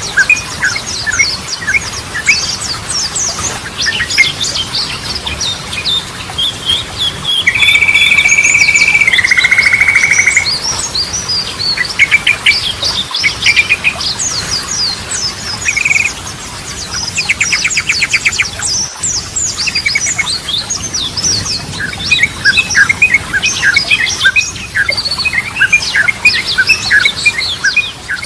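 Trucukan (yellow-vented bulbul) singing: a dense stream of quick chirps and warbled phrases. About seven seconds in comes a loud held whistle lasting about three seconds, which steps down in pitch halfway through. Later, near the middle, there is a fast rattling trill.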